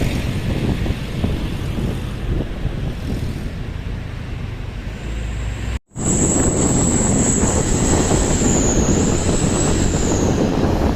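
Road vehicle noise, a steady low rumble, broken by a short gap about six seconds in. After the gap it is louder, with a steady high whine for about four seconds.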